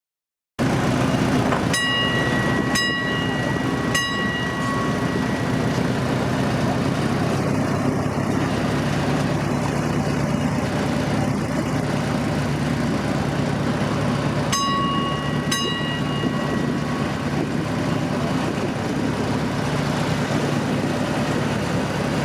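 Tourist train running steadily with a low engine drone, while a bell rings with single clear strikes, four near the start and two more about two-thirds of the way through.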